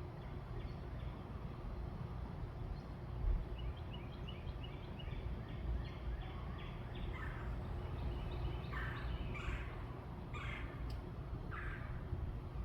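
Outdoor birds calling over a steady low rumble: a quick run of short high notes in the first half, then about five short, harsh calls in the second half.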